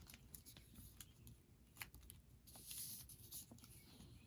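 Near silence, with faint scattered ticks and a soft rustle about two and a half to three seconds in, from paper and bookbinding tools being handled.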